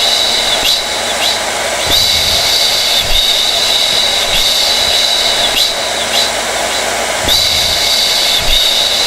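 Hair dryer running steadily: a constant rush of blown air with a high whine over it. The whine dips briefly a few times.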